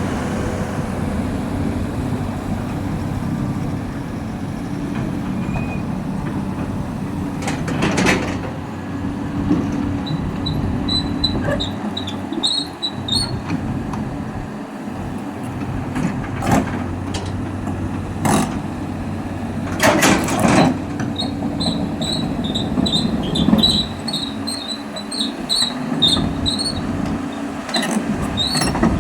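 Caterpillar 320D excavator's six-cylinder diesel engine running steadily while the machine travels. From about a third of the way in, short high squeaks repeat several times a second from its steel tracks. A few brief bursts of noise break in.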